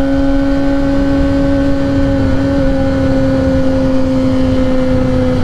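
Kawasaki ZX-10R's inline-four engine, fitted with a Graves race exhaust, running at a steady pitch while the bike cruises, over low wind rumble.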